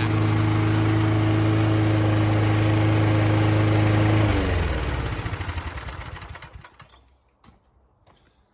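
Mountfield Empress 16 lawnmower's petrol engine running at a steady speed, then switched off about four seconds in, its pitch falling as it winds down to a stop. A couple of faint clicks follow in the quiet.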